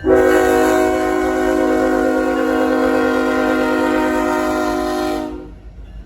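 Locomotive air horn on a CSX freight train sounding one long blast, several notes held together as a steady chord, starting abruptly and fading out about five seconds in.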